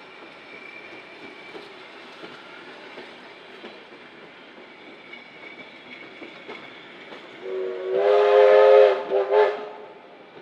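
Heritage passenger train rolling slowly past with faint wheel clatter. Near the end the train sounds one long blast of several pitches together, then a short one.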